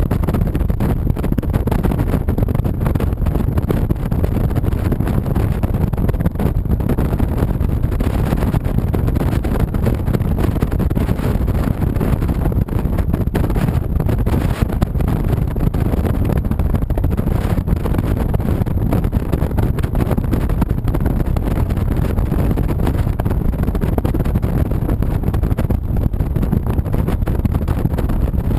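Steady rumble of a Honda VTX 1300C's V-twin engine while the motorcycle is being ridden, mixed with wind noise on the camera's microphone.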